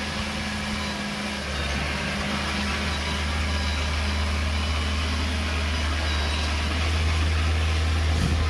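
Heavy earthmoving machine's diesel engine running steadily at low revs, growing a little louder about seven seconds in.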